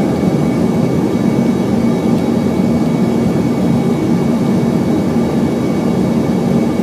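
Steady cabin noise inside a jet airliner during descent: the engines and rushing airflow make an even, unbroken sound with a low hum.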